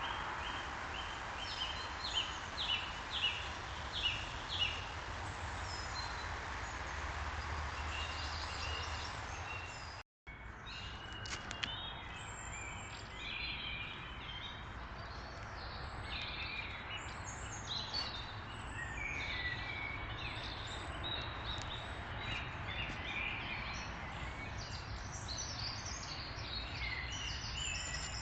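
Wild birds singing and calling over a steady background hiss of outdoor noise. Early on there is a run of short repeated high notes, and after a brief cut-out in the sound about ten seconds in come many scattered chirps.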